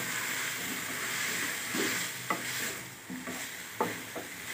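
Cauliflower and potato pieces frying in oil in a pan, a steady sizzle, while a utensil stirs them and knocks and scrapes against the pan several times, mostly in the second half.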